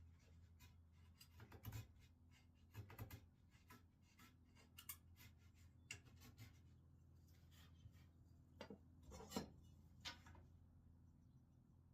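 Near silence with faint scattered clicks and light knocks of small objects being handled, over a low steady hum; the loudest knock comes about nine seconds in.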